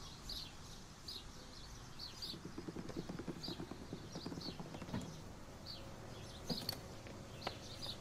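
Faint outdoor ambience of birds chirping in short, high, scattered calls, with a few light clicks.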